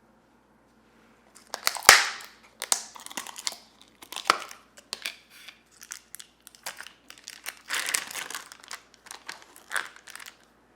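Paper or plastic packaging being handled: irregular crinkling and rustling that starts about a second and a half in, with louder bursts near the start and again toward the end.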